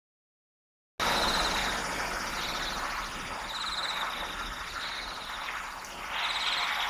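Outdoor field ambience: a steady background rush with short, high trills repeated about five times. It starts abruptly about a second in, after a gap of total silence.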